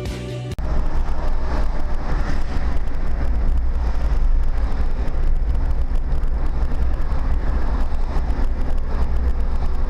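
Road and engine noise of a moving car picked up by a dashcam microphone inside the cabin: a steady low rumble with a haze of tyre and wind noise. Music cuts off about half a second in.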